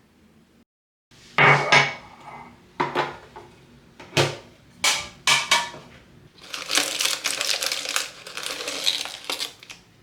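Dishes and utensils being handled: a string of sharp clinks and knocks with short ringing, then about three seconds of dense, continuous rattling clatter.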